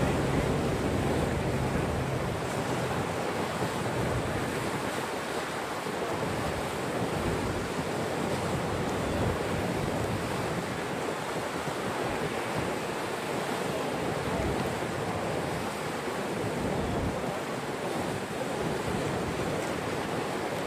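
Steady rushing noise of wind and water, with wind buffeting the microphone in uneven low rumbles.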